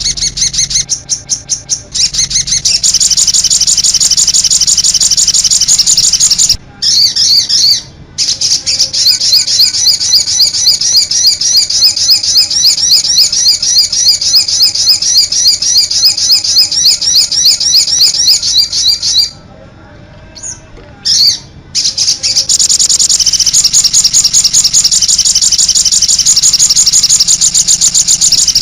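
Songbird song from a masteran tutoring recording: long runs of rapid, high trilled notes repeated many times a second, broken by short pauses about 7 and 19 seconds in.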